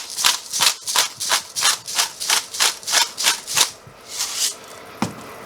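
Salt dispensed over a pan of reducing glaze: a run of about a dozen quick rasping strokes, roughly three a second, stopping a little over halfway through, then a single sharp tap near the end.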